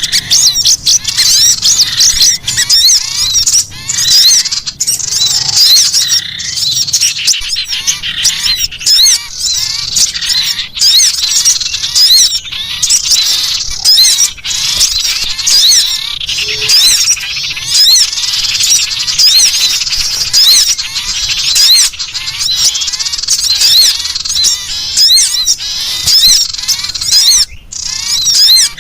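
Sirtu bird giving its harsh, rapid chattering 'ngekrek' call, the call it makes when threatened, repeated in phrases over and over: a bird-trapping lure recording.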